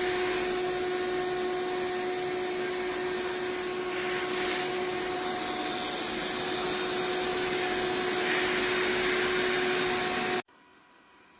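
iRobot Roomba 405 Combo robot vacuum running: a steady whirring rush with a constant hum-like whine under it, cutting off abruptly near the end.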